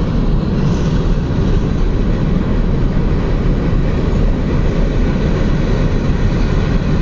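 Freight train, likened to a coal train, rolling past with a steady, loud rumble of its cars on the rails.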